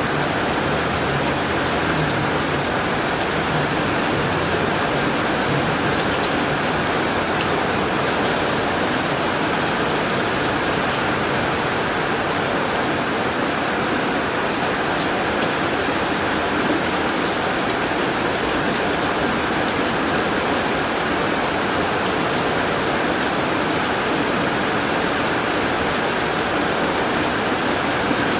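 Heavy rain falling steadily on a tin roof: a dense, even patter with individual drops ticking on the metal.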